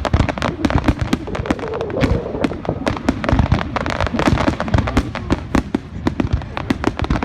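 Fireworks going off in a dense barrage: a rapid, continuous string of sharp bangs and crackling reports, many each second.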